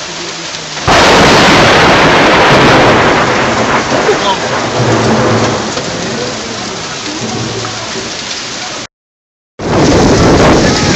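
Heavy rain pouring during a thunderstorm, with thunder rumbling. About a second in, the storm noise jumps much louder and then slowly eases off over several seconds. A brief dropout to silence comes near the end, then loud rain again.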